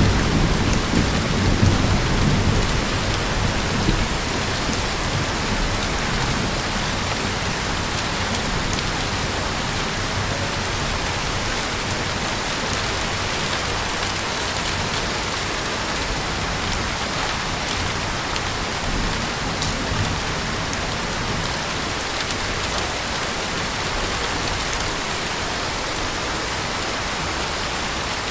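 Heavy, steady rain falling and pattering on surfaces. A low roll of thunder fades away over the first few seconds, and the rain carries on alone.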